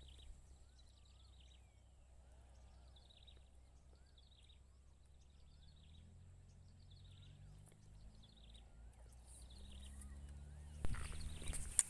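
Outdoor wildlife ambience: short calls sliding downward, repeating about once a second, and a fainter rise-and-fall note repeating more slowly, over a low rumble. Near the end, sharp clicks and rustling break in.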